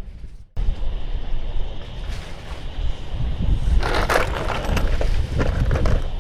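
Wind buffeting the microphone in a steady low rumble, dropping out for a moment about half a second in, with a short crackling rustle about four seconds in.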